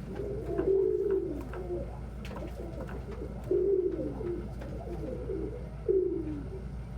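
Domestic pigeons cooing in a series of low coos. The loudest come just after the start, at about three and a half seconds and near six seconds, with softer coos between them.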